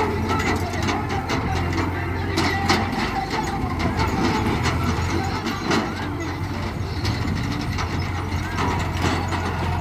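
Diesel tractor engine running steadily, with scattered clicks and knocks over it.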